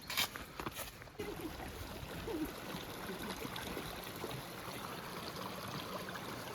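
A few sharp knocks, then about a second in the steady rush of a river's flowing water comes in and runs on evenly.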